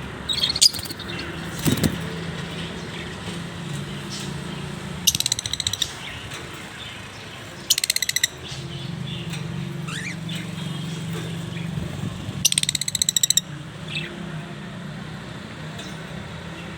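Peach-faced lovebirds chattering: a few short bursts of rapid, sharp chirps, each under a second long, with single chirps between them, over a steady low hum.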